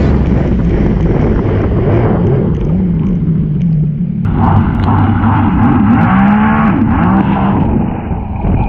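Sea-Doo Spark jet ski engine revving up and down repeatedly, its pitch rising and falling as the throttle changes.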